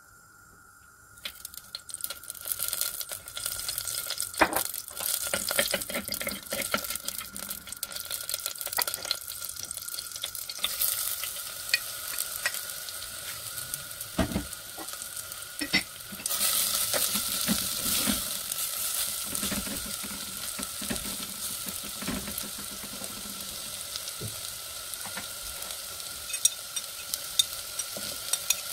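Whole spices (cumin seeds, cardamom, cinnamon stick), then sliced onions, sizzling and crackling in hot oil in a clay pot, with a spoon clicking and scraping as it stirs. The sizzle starts about a second in and gets louder about halfway through.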